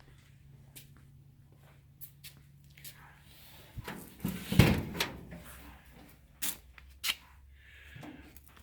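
Scattered clicks and knocks of a door and latch being handled, with one loud clunk about halfway through and two sharp knocks a little later; the engine is not running.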